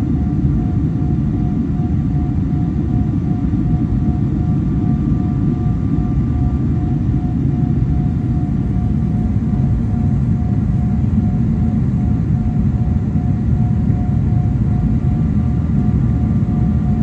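Airliner cabin noise: a steady low rumble with a faint, even whine above it.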